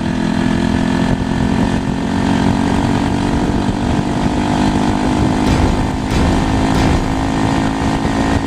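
Motorcycle engine running steadily at a constant pitch.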